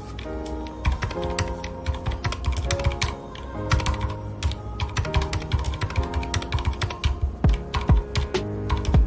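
Typing on a red-switch (linear) mechanical keyboard: rapid, irregular keystrokes that grow busier and louder partway through. Soft background music with held notes plays under it.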